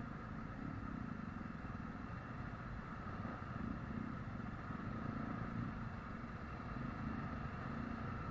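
Steady vehicle running noise: a low engine and road rumble that holds even throughout.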